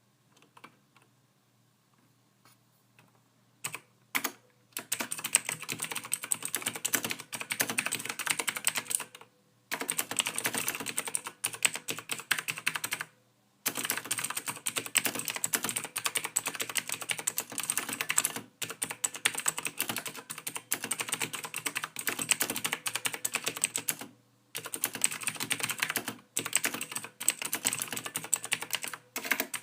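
Typing on a computer keyboard: fast runs of key clicks broken by short pauses, after a near-quiet start of a few seconds with only scattered taps.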